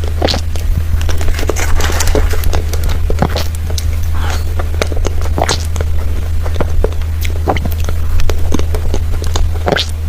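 Close-miked eating of creamy cake: wet, sticky mouth sounds and smacks, irregular and several to the second, over a steady low hum.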